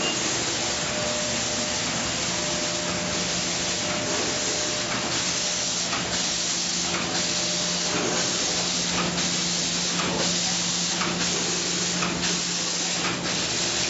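Factory floor background noise: a steady hiss with a faint machine hum, broken by scattered short clicks and knocks from work on the production line.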